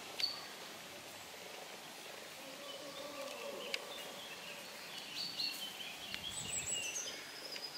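Quiet outdoor ambience with a few faint, short, high bird chirps, more of them in the second half.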